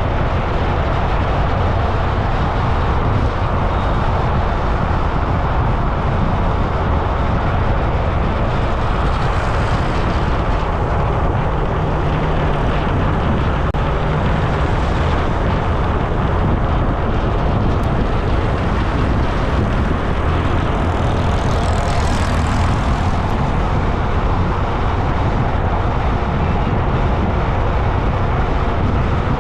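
Steady rumbling wind and road noise picked up while riding along a road, heaviest in the low end, with a few brief hissing swells.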